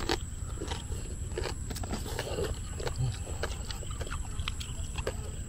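People chewing crispy fried pork jowl: irregular crunches of the crackling skin, mixed with wet chewing and mouth sounds.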